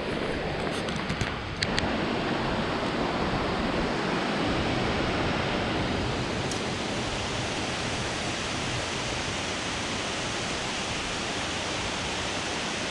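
Steady rush of falling water from a river waterfall. A few sharp clicks or knocks sound in the first two seconds.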